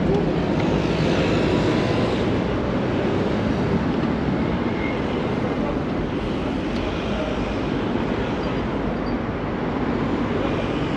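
Steady traffic noise of a busy city street heard while cycling: a continuous rumble with no distinct events.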